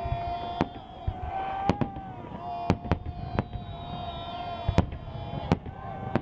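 Aerial firework shells bursting overhead: about eight sharp bangs at irregular intervals, some close together.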